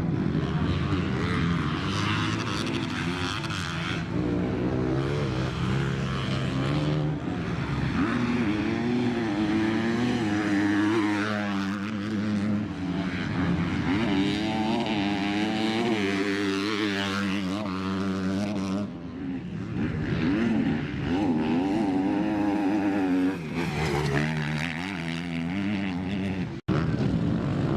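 Motocross dirt bike engines revving hard, their pitch climbing and dropping again and again as the riders open and shut the throttle. The sound cuts out briefly near the end.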